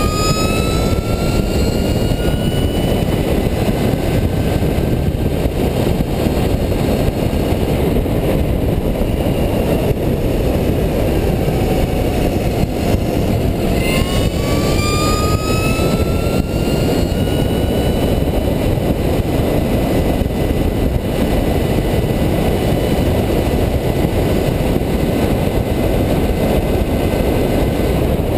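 Heavy wind noise on the microphone of a scratch-built electric racing bicycle at speed. The electric drive's whine rises in pitch twice as the bike accelerates, once at the start and again about halfway through, with a brief falling whine just before the second rise.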